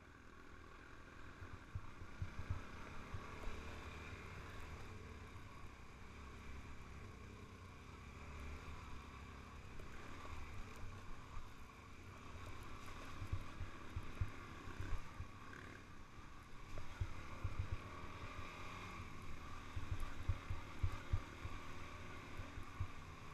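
Wind buffeting the microphone in irregular gusts over a steady rushing background noise.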